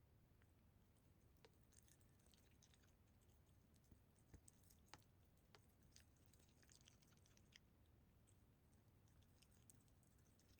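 Very faint sounds of a cat eating: scattered soft mouth clicks, with a few sharper ones near the middle.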